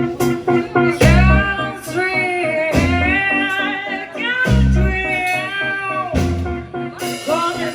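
Live band playing a song: a singing voice over guitar, with bass notes coming in and out.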